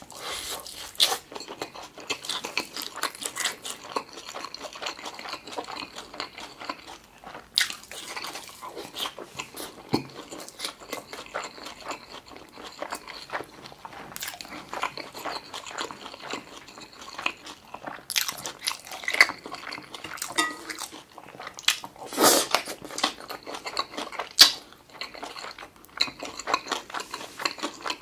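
Close-miked chewing of an egg-battered beef pancake (yukjeon): steady wet, crunchy mouth sounds with a few louder sharp bites and smacks spread through.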